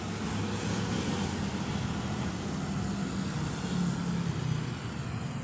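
Road traffic: a motor vehicle's engine and tyre noise close by, swelling over the first second and then running steadily.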